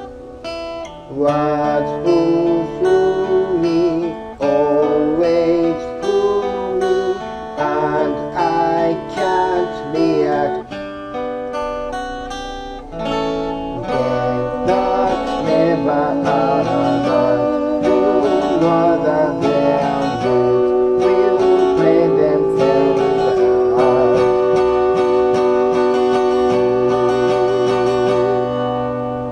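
Acoustic guitar strummed under a voice singing a slow melody; in the second half the voice holds one long, wavering note.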